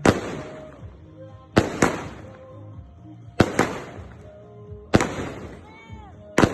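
Fireworks going off in a steady barrage: sharp bangs, mostly in close pairs, about every one and a half seconds, each with a fading tail.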